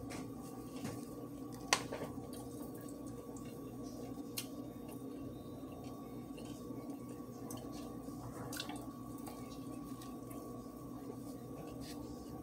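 Close-up chewing and wet mouth sounds of someone eating a chicken sandwich: soft squishy smacks and small clicks over a steady background hum. One sharp click about two seconds in is the loudest sound.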